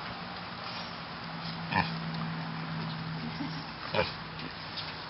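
A pig grunting twice, about two seconds in and again near the end, over a steady low hum.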